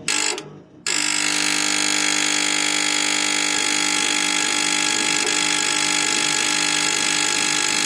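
Brivis Wombat 120 gas heater control board giving a loud, continuous buzzing chatter. It starts suddenly with a short burst, breaks off for a moment, then runs on steadily. The fault persists after the board's capacitor was replaced, so it is not a bad capacitor.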